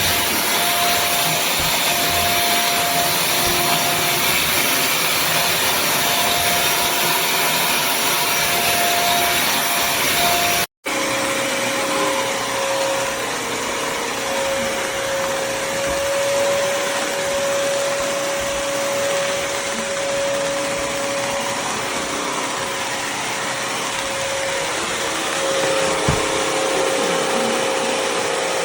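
Wet-dry floor cleaner vacuum motor running steadily with a constant whine over its airflow. About ten seconds in, the sound cuts out for an instant and comes back with the whine pitched a little lower.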